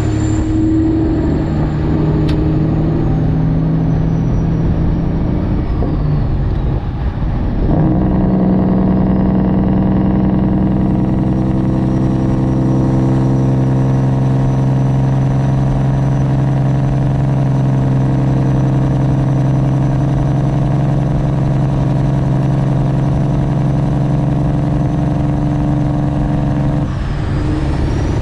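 Straight-piped Detroit Diesel 12.7 (Series 60) in a Freightliner Classic XL running steadily on its engine (Jake) brake down a steep grade under a heavy load. The sound breaks off briefly about seven seconds in, as a gear changes, and comes back at a different pitch. It shifts again near the end.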